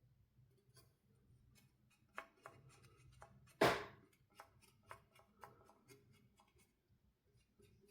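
Scattered small clicks and taps of hand work on a console's parts and tools, with one louder knock about three and a half seconds in.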